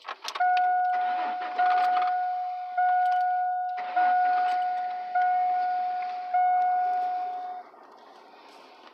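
Chevrolet Blazer ZR2's warning chime ringing six times, about one a second, each tone starting sharply and fading before the next, then stopping; a few key clicks just before it.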